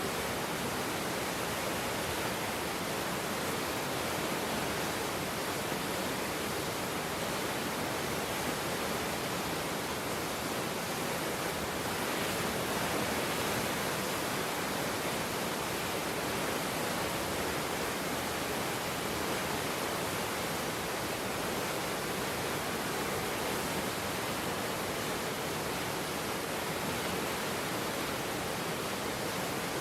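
Swollen floodwater river rushing past, a steady, even noise with no breaks.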